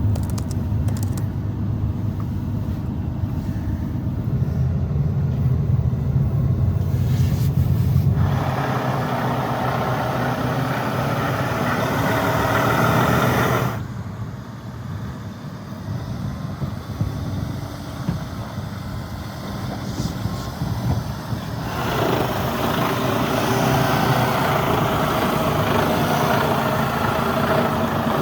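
Semi-truck running, a steady engine rumble and road noise, with the sound changing suddenly about eight, fourteen and twenty-two seconds in as the scene cuts.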